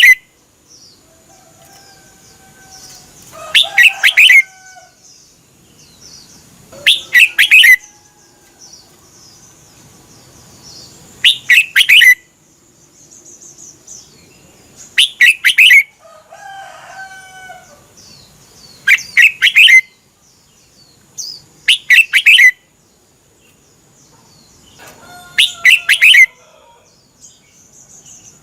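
Red-whiskered bulbul singing short, loud phrases of quick notes, repeated seven times about every three to four seconds, with quieter, lower bird calls in between. A faint, steady high tone runs underneath.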